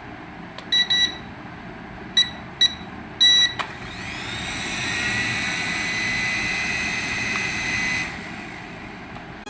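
A toy aircraft sounding four short electronic beeps, then a high whine that rises, holds steady for several seconds and fades away.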